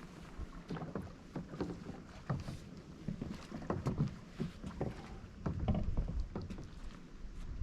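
Water lapping and splashing with irregular small knocks.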